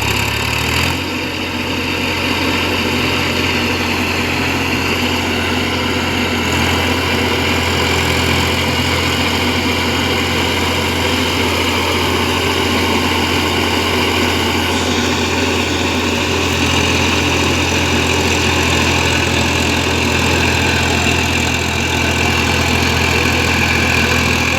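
A 2WD tractor's diesel engine running steadily under load in low fourth gear while pulling a farm implement. Its note shifts slightly a few times.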